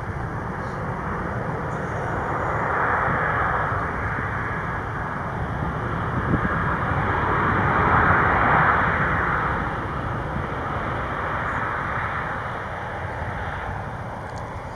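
Jet airliner engines, a steady rush that swells to its loudest about eight seconds in and then fades.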